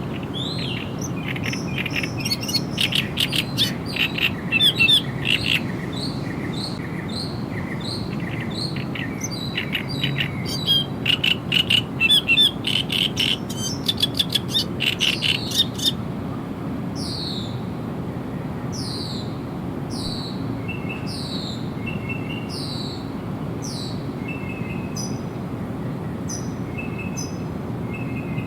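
Songbirds singing: repeated down-slurred whistled notes with bursts of fast, loud chattering trills, then about halfway through an abrupt switch to a different song of high descending whistles about once a second with short lower notes between. A steady low background noise runs underneath.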